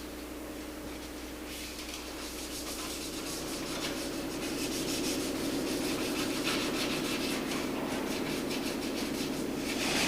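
A machine running steadily: a pitched hum with a fast, even rasping texture, growing gradually louder through the first half and then holding.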